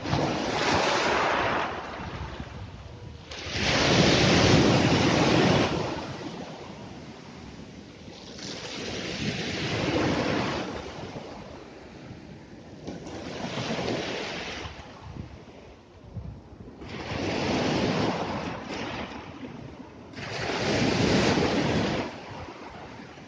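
Sea waves breaking and washing up the shore, surging and fading every three to four seconds, about six waves in all, the loudest about four seconds in.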